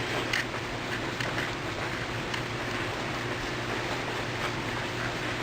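Steady hiss with a low electrical hum and a few faint, light clicks scattered through it.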